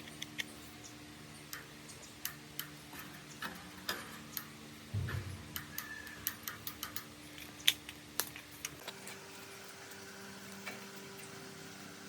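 Scattered light clicks and taps of hand work on metal parts, irregular and unhurried, with a duller knock about five seconds in, over a faint steady hum.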